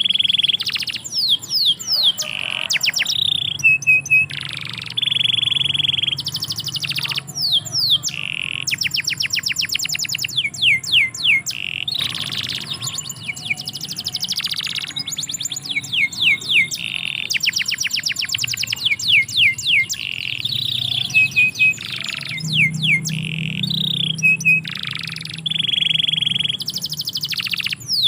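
Domestic canary singing a long, unbroken song: fast trills of repeated notes, quick falling sweeps and long held whistles.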